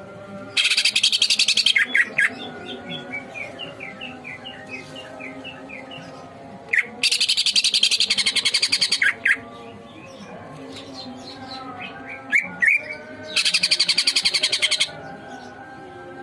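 Cucak ijo (green leafbird) singing at full strength. Three loud, harsh, fast-rattling phrases of a second or two each alternate with runs of quick chirping notes, about two to three a second.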